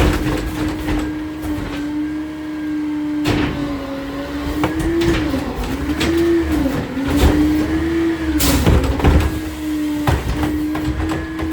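Garbage truck engine held at raised revs, a steady drone that dips and rises in pitch a few times in the middle, with several sharp metal clanks and bangs from the truck working.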